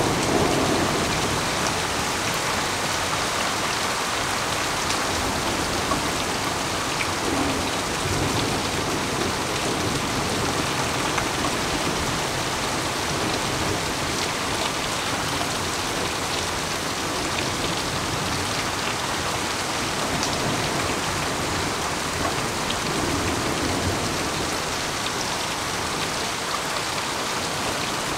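Heavy rain falling steadily on grass, pavement and leaves during a thunderstorm, with low rumbles of thunder swelling under it a few times.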